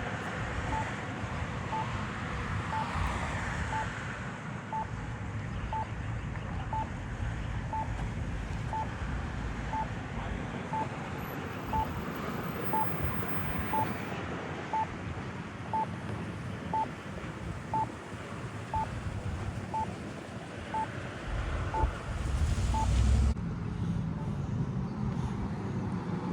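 A short electronic beep repeating about once a second over steady traffic noise. The beeps stop about 23 seconds in, just after a louder low rumble.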